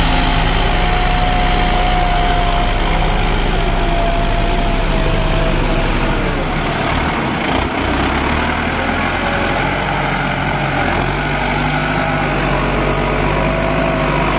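Kubota M8540 tractor's diesel engine running steadily while pulling a five-disc plow, its low note dipping briefly about halfway through.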